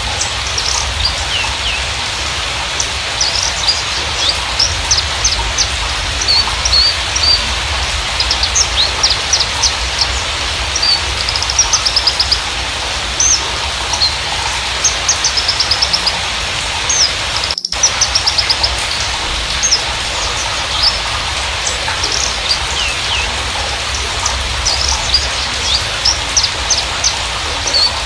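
Javan bushlark singing a long, continuous song of rapid chirps, short trills and quick down-slurred whistles over a steady hiss. The sound cuts out for an instant about two-thirds of the way through.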